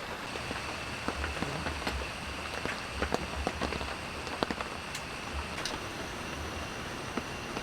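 Steady rain falling, with many separate heavy drops tapping irregularly on a surface close by.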